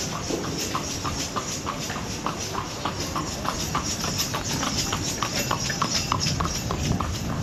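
Horse hooves clip-clopping at a steady trot, about three to four beats a second, over a steady rush of noise.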